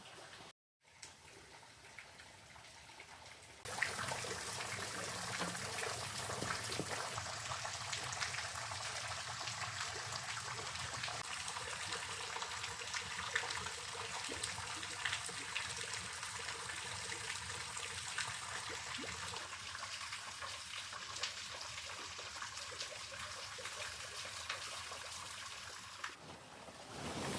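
Falling water spattering steadily, an even hiss full of small drip and splash ticks, starting abruptly about four seconds in after a fainter stretch.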